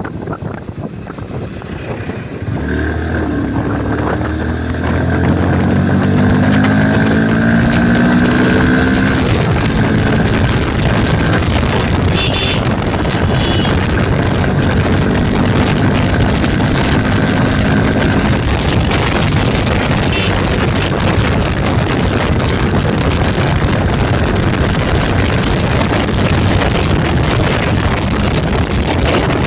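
Motorcycle engine pulling up through the revs as the bike accelerates, then running at speed under heavy wind rush on the microphone.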